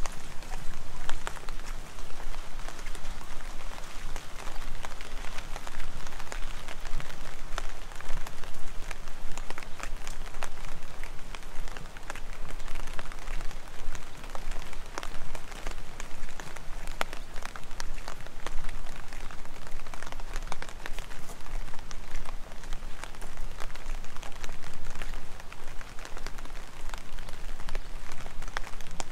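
Heavy rain falling steadily: a dense hiss with many sharp, close drop hits.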